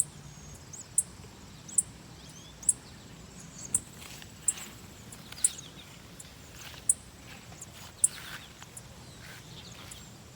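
A small bird repeating short, high-pitched chirps about once a second, over a low outdoor background.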